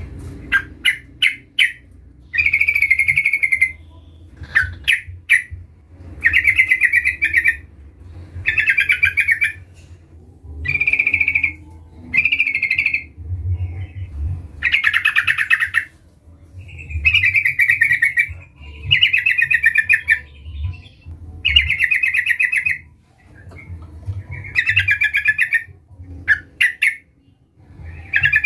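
Yellow-vented bulbul (trucukan) singing a lively bubbly song in short phrases about a second long, repeated every couple of seconds, with a few quick sharp notes near the start. It is a vigorous 'gacor' calling song of the kind used to lure a rival trucukan into singing.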